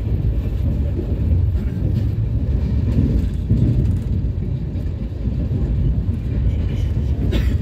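Steady low rumble inside an Indian Railways AC chair car coach on a diesel-hauled train, with one short click near the end.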